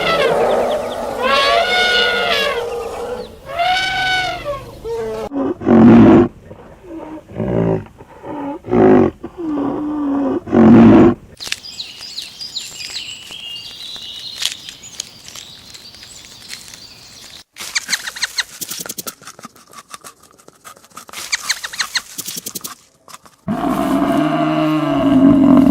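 A run of different farm animal calls one after another: drawn-out rising-and-falling calls at first, then several short, loud, low calls, a quieter high-pitched stretch, a rapid rattling patch, and low pitched calls again near the end.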